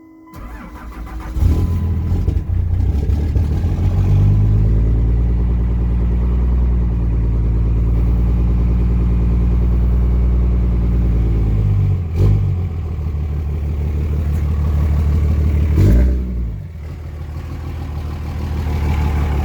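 2004 Dodge Ram 2500's 5.9 Cummins diesel, fitted with compound turbos and a 5-inch exhaust, cranks briefly and catches, then runs at a fast idle. There is a brief thump about 12 s in. The engine rises once near 16 s, then settles to a quieter idle.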